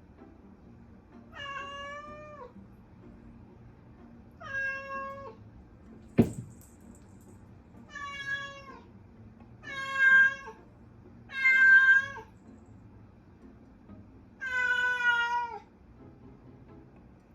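Siamese-mix cat meowing six times, each drawn-out meow dropping in pitch at the end, with a sharp click about six seconds in.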